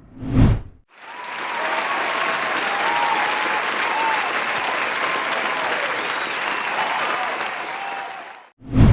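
Audience applause from a crowd of many people clapping, rising in about a second in and fading out near the end, with faint voices among the clapping. A brief separate sound comes at the very start.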